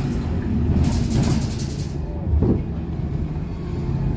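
Scania K230UB bus's diesel engine and running gear giving a steady low rumble. About a second in there is a second-long burst of hiss or rattle, and about two and a half seconds in a short thump.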